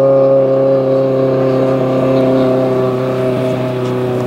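Rally car engine running at a steady speed, its pitch sinking slowly and its level easing a little.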